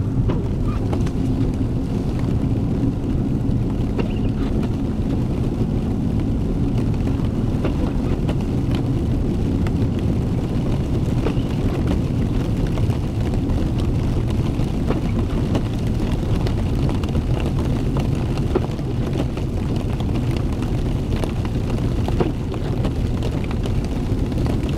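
Four-wheel-drive pickup truck driving, a steady low rumble of engine and tyre noise heard inside the cab.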